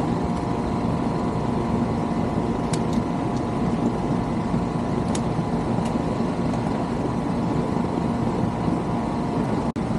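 Rheem air-conditioning condensing unit running steadily, its compressor humming under the rush of the condenser fan. With a new contactor and capacitor fitted, the unit now starts and runs on its own without being kicked.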